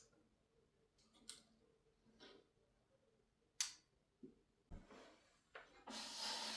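Scattered sharp clicks and light knocks of small objects being handled, with a soft thud about three quarters of the way through. A steady hiss starts near the end.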